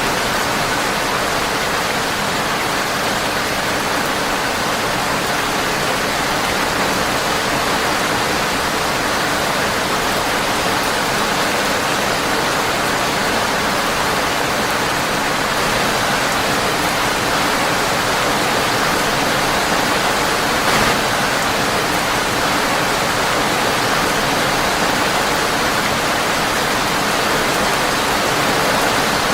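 Steady rain on a windowpane, an even hiss that does not let up, with a single brief pop about two-thirds of the way through.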